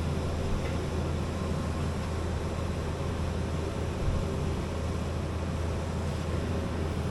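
Steady low machine hum with an even background rush.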